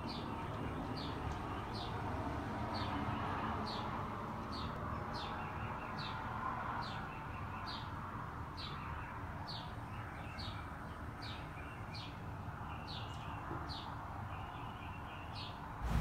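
A small bird chirping over and over, short high downward-sliding chirps a little more often than once a second, over a steady low background hum.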